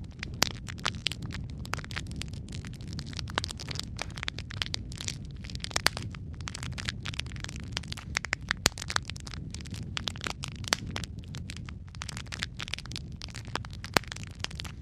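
Logs burning in a fireplace, crackling with many irregular sharp pops over a steady low rumble of flame.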